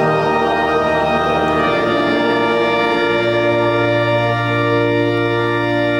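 Organ playing slow, sustained chords, moving to a new chord about two seconds in.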